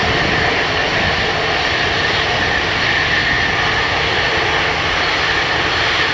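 Airliner engines running, a steady, unbroken noise with a constant high whine on top.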